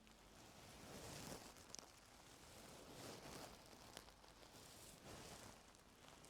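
Faint scratching and rustling of ear-cleaning tools working close against an ear, in soft, irregular swells with a couple of small clicks.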